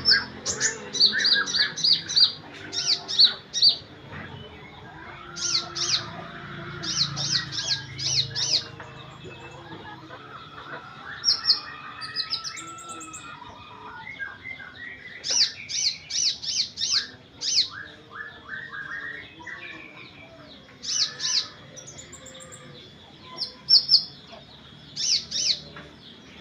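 Olive-backed sunbird (kolibri ninja) singing: repeated bursts of rapid, high-pitched chips with short pauses between them, with fainter, lower calls of other birds underneath.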